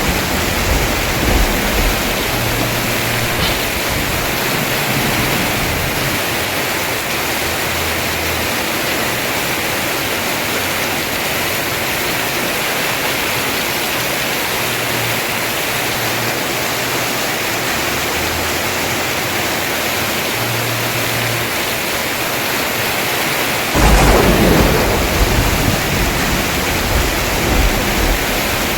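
Heavy rain pouring steadily on a house roof, with a thunder rumble fading at the start. Late on, a sudden loud clap of thunder breaks in and rumbles away over several seconds.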